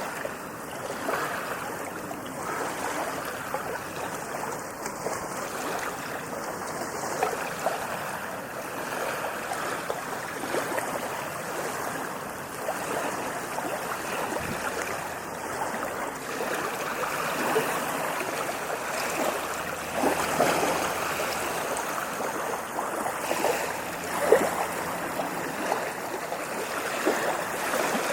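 Sea waves breaking and washing up a beach, a continuous hiss of surf with small crackles and a few louder splashes near the end.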